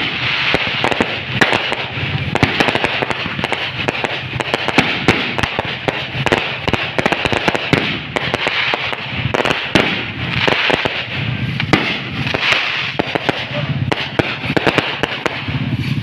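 Fireworks and firecrackers going off continuously: a dense, unbroken crackle of rapid pops and bangs with no pause.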